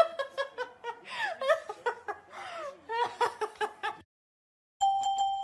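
A person laughing and giggling in high, rising and falling bursts, cut off about four seconds in. A single glockenspiel-like chime note starts near the end.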